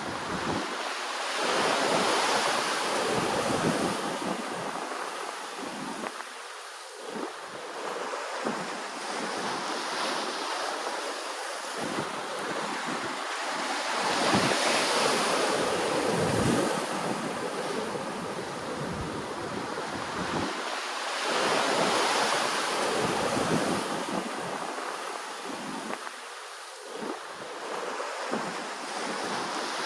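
Ocean waves washing onto the shore, the surf swelling and fading in slow surges, with the loudest around two seconds in, near the middle and about two-thirds through.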